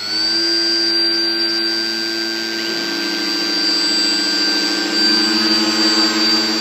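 Hovercraft engine and lift/thrust fan running at a steady high speed, with a held high-pitched whine over a lower hum.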